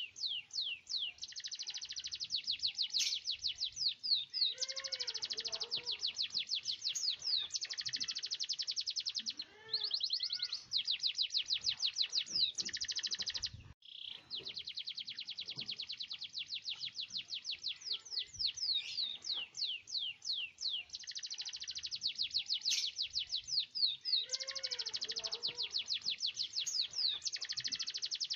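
Domestic canary in full song, singing long, fast rolling trills of rapidly repeated notes with a few sharp high notes. The song runs almost without a break, pausing only briefly about halfway through.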